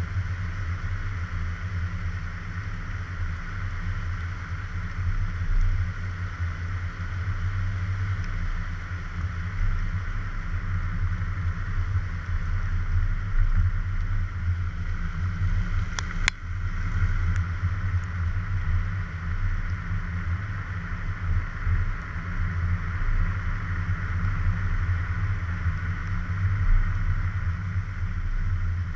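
A car on the move: a steady low engine and road rumble picked up by a suction-cup-mounted GoPro, with a single sharp click about halfway through.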